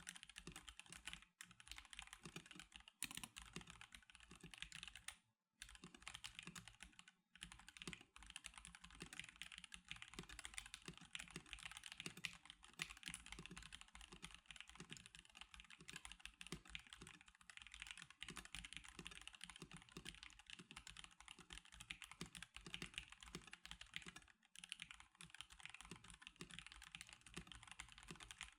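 Steady typing on a stock NovelKeys NK87 Darkshake Edition mechanical keyboard: a dense run of key presses, broken by a few short pauses, the longest about five seconds in.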